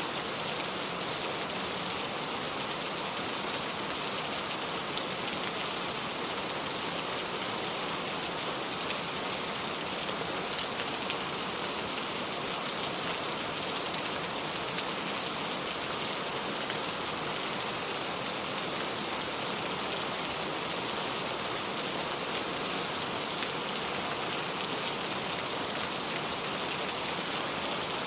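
Heavy rain pouring steadily, with a dense patter of drops hitting a surface. There are no pauses and no changes in strength.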